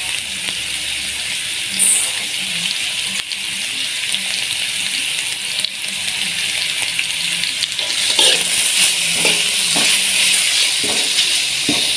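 Food frying in a pan with a steady sizzle. In the second half it is stirred, with a run of short scraping knocks from the spatula.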